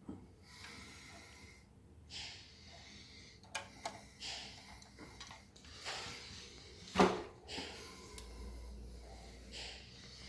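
Scattered light clicks and short rustling, hissing noises of objects being handled, with one sharp click about seven seconds in.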